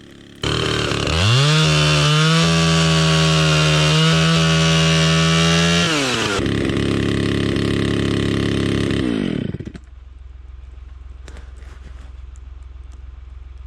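Chainsaw engine revving up about half a second in and held at a high, steady speed for about five seconds. It then drops to a lower note and winds down to a stop near ten seconds in.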